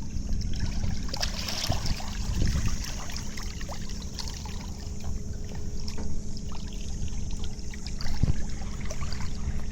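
Water splashing and trickling at the side of a boat as a large blue catfish, held by the tail in the river, kicks in the water, over a low steady hum.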